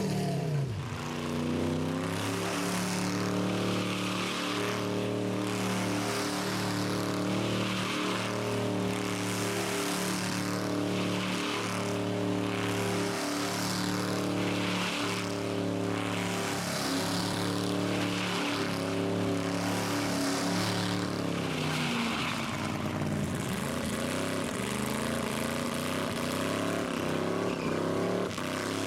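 Rat rod engine held at high revs during a burnout, a steady drone that dips and climbs back near the start and again about 23 seconds in, with a tyre hiss swelling and fading about once a second.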